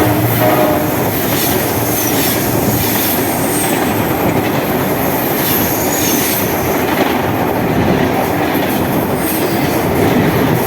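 Fast passenger train passing close by: a loud, steady rush of its cars rumbling and clattering over the rails, with a few brief high wheel squeals. A horn note trails off in the first second.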